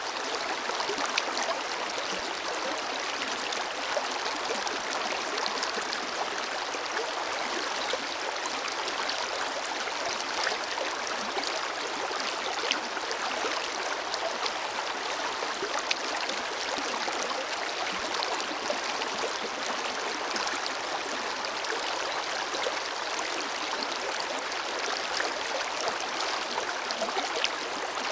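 Forest river flowing over rocks: a steady rush of running water with small splashes and trickles scattered through it.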